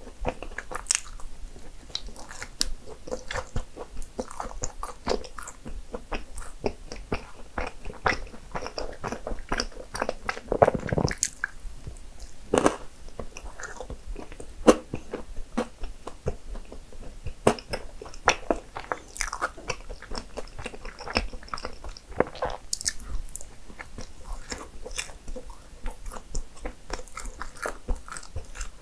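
A person chewing and biting into cinnamon rolls, with irregular soft crunches throughout.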